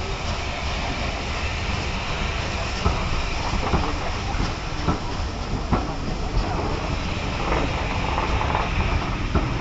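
Passenger coaches of a train rolling past, a steady rumble of wheels on the rails with irregular sharp clicks and knocks.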